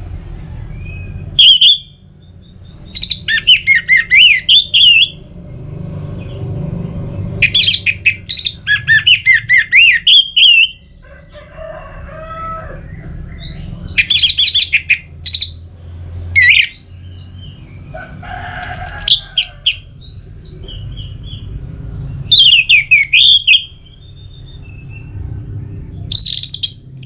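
Orange-headed thrush singing: loud song phrases of one to three seconds, each opening with a rapid string of sharp notes and running into a warbling whistle. The phrases repeat every few seconds over a steady low rumble.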